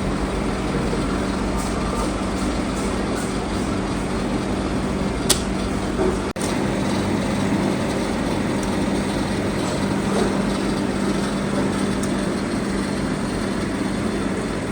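A workshop power tool's motor running steadily, with a constant hum and a hiss of noise. There is a single sharp click about five seconds in.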